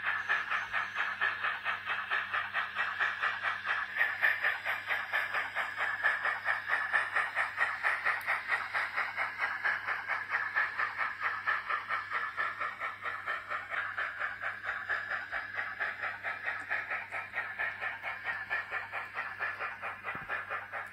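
Sound decoder of a Graham Farish N gauge LMS 4F 0-6-0 model steam locomotive playing a steady rhythm of steam exhaust chuffs, about four a second, through its small onboard speaker as it runs. The chuffs slowly grow fainter toward the end.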